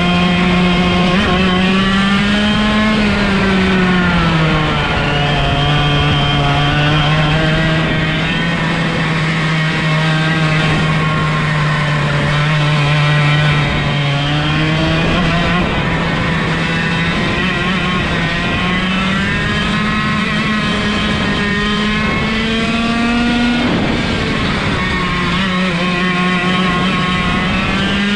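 125cc two-stroke go-kart engine, direct-drive with no gearbox or clutch, running hard on track; its pitch climbs and falls several times as engine speed rises and drops, with a sharp drop about 24 seconds in.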